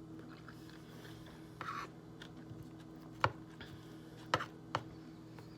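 Eating sounds close to the microphone: a short crunchy rustle about a second and a half in, then three sharp clicks over a low steady hum.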